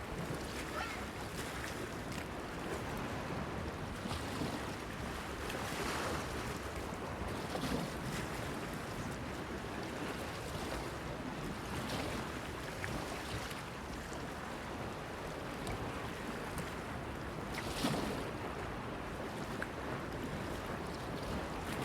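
Sea waves lapping and splashing against a breakwater pier, with wind; a splash comes every few seconds, the largest about eighteen seconds in.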